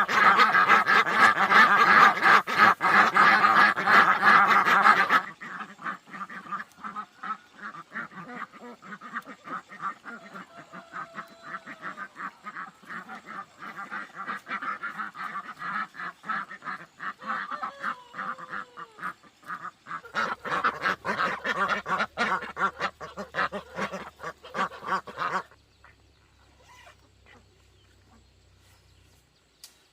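Many ducks quacking together in a rapid, dense chatter. It is loud at first, drops to a quieter level after about five seconds, swells again past the twenty-second mark, then cuts off suddenly near the end.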